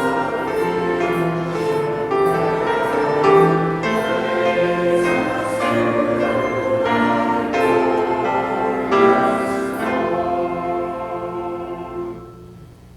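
Church choir singing, with held chords; the music ends about twelve seconds in.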